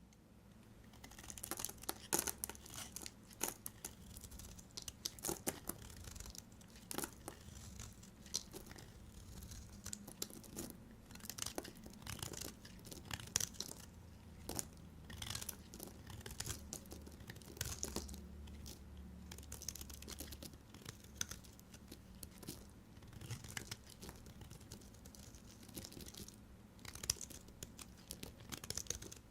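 A knife cutting through bars of soap: many irregular sharp crackles and snaps, starting about a second in.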